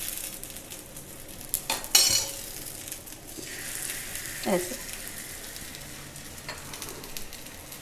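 Oiled, potato-coated bread rounds sizzling steadily on a hot tawa griddle, with a sharp clink of a metal spoon about two seconds in and a short sliding squeak near the middle.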